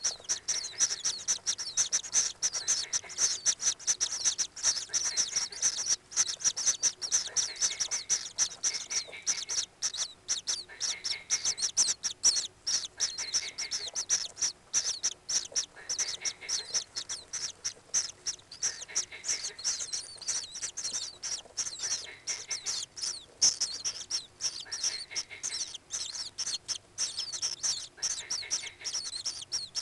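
High-pitched bird chirping repeated rapidly, several chirps a second with hardly a pause, picked up by a microphone inside a common kingfisher's nest burrow.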